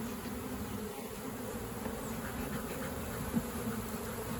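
A mass of honeybees buzzing in a steady, wavering hum as they are shaken and coaxed out of a swarm trap, with one brief knock about three and a half seconds in.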